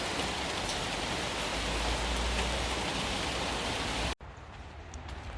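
Heavy rain shower falling in a steady hiss, with a few sharper ticks. About four seconds in it cuts off abruptly, and a much quieter hiss with scattered ticks follows.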